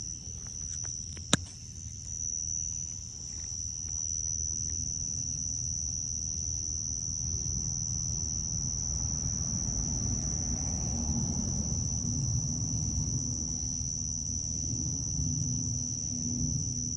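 Crickets giving a steady, high-pitched trill, with a sharp click about a second in and low rumbling noise that grows louder from about four seconds on.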